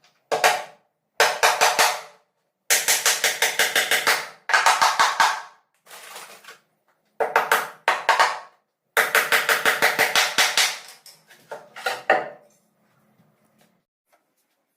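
Rapid knocking on wood, in several bursts of about eight to ten sharp strikes a second, each burst starting and stopping abruptly.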